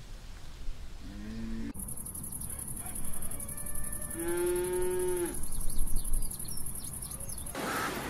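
Cattle mooing: a short, low moo about a second in, then a louder, long moo of just over a second with a clear, fairly high pitch that drops slightly as it ends. A steady high-pitched hiss runs behind the second call until near the end.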